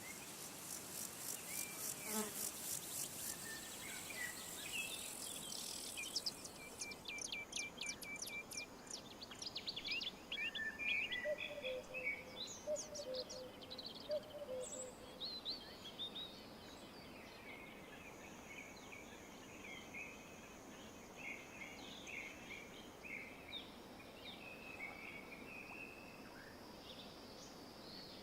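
Outdoor nature sound: a high, rapid pulsed buzzing trill for the first few seconds, then a run of varied bird chirps and short calls that go on throughout.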